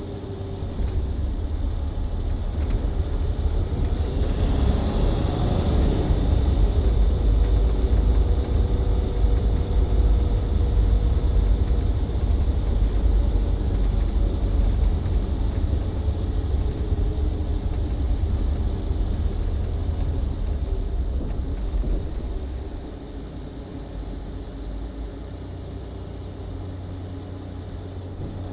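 Mercedes-Benz Citaro C2 LE hybrid city bus with a Voith automatic gearbox, heard from inside the cabin while driving in town: a steady diesel engine and drivetrain sound with small rattles. About 22 seconds in it becomes clearly quieter, as the bus eases off or comes to a stop.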